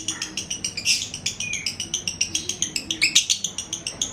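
Lovebird singing a continuous run of rapid high chirps, about seven or eight a second, with a couple of louder bursts. This is the long unbroken chatter keepers call 'ngekek' in a bird that is 'jebol konslet', in full non-stop song.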